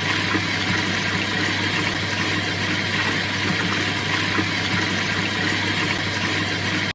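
Washing machine running with a steady low hum and an even whooshing noise over it, with no breaks or changes.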